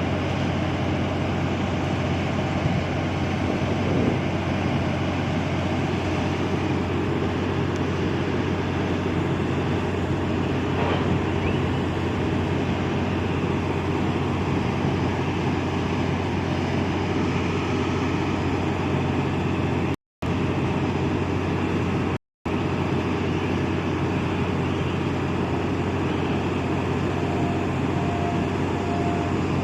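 Ship's diesel engine running steadily, a constant low drone with a rumbling haze above it. The sound cuts out completely twice, briefly, a little past the middle.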